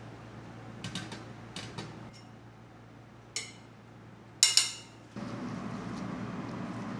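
Dishes and utensils clinking: a few light taps, then a sharp clink and two loud ringing clinks. About five seconds in, a steady low hum starts and keeps going.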